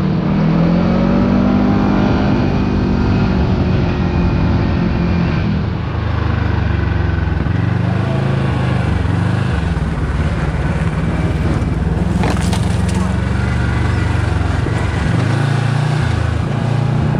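Kawasaki Teryx KRX side-by-side's parallel-twin engine pulling the machine along a snowy road, revving up in the first couple of seconds and then running steadily under way. A few brief knocks come about twelve seconds in.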